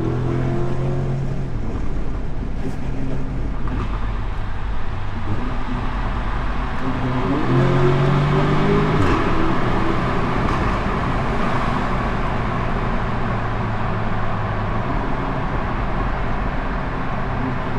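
Tuned Audi S3's turbocharged four-cylinder engine with a Milltek exhaust, driving at a steady engine note over tyre and road noise. About halfway through the engine pitch climbs under acceleration, then drops sharply as the car changes gear.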